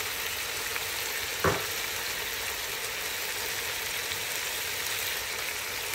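Cauliflower and potatoes sizzling in oil in a nonstick wok: a steady hiss, with a single knock about a second and a half in.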